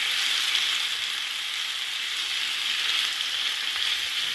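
Beef, onions and firm tofu sizzling steadily in a hot frying pan as they are stirred with tongs.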